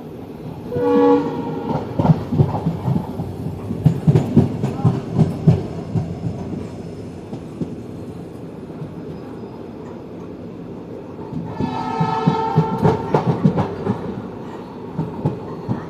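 Train wheels clattering over rail joints, with a train horn sounding briefly about a second in and again, longer and higher, around twelve seconds in.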